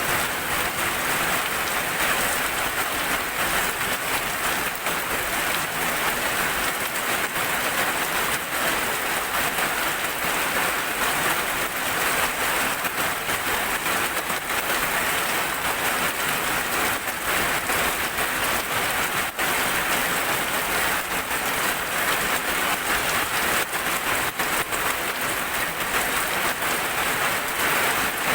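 Steady heavy rain falling on a surface: a dense, even hiss with many close-set drop ticks.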